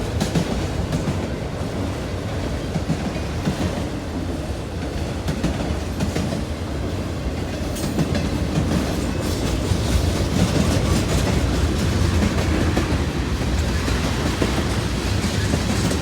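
Norfolk Southern freight train rolling past, its cars' wheels clicking over the rail joints over a steady low rumble, growing a little louder near the end.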